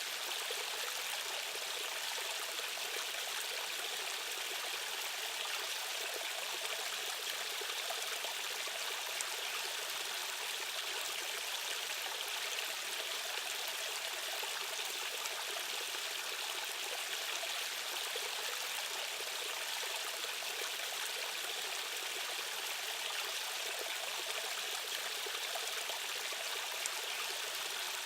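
Stream of rushing water, a steady, even rush without a break.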